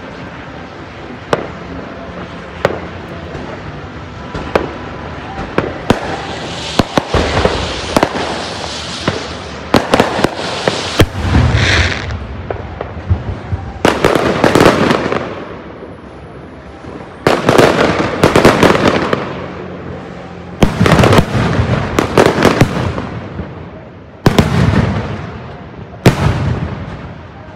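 Aerial fireworks going off: single bangs of shells bursting, with dense volleys of bangs and crackle several times.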